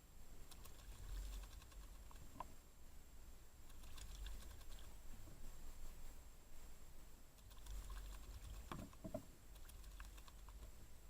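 Faint light clicking and pattering at a bird bath, coming in clusters, typical of small birds splashing and pecking at the water. There are brief chirps about two seconds in and again near the end, over a low rumble.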